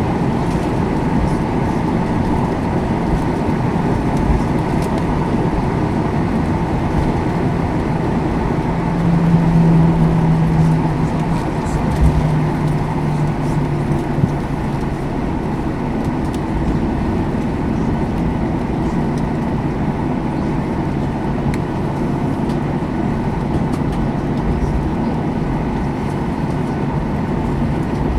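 Steady cabin noise inside a Boeing 737-800 with its CFM56 engines running. A low hum swells briefly about ten seconds in and then eases slightly lower.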